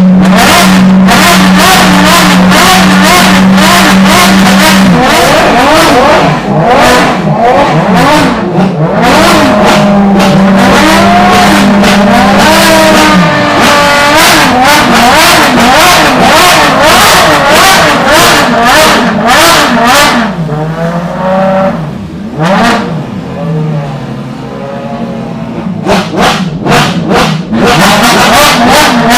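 Ferrari V12 track-car engines revving hard. The note is held steady at high revs for the first few seconds, then blipped up and down in quick sweeps. It is quieter for a few seconds about twenty seconds in.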